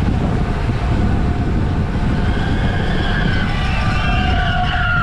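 Steady rumble of wind buffeting the microphone during a bicycle race, with faint drawn-out wavering tones, like distant shouts or whistles, rising over it in the second half.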